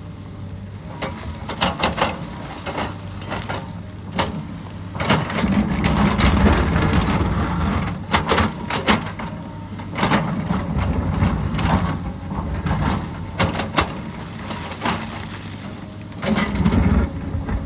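Hyundai excavator's diesel engine running under load while the bucket digs and scrapes through rock and soil, with irregular knocks and clatter of stones.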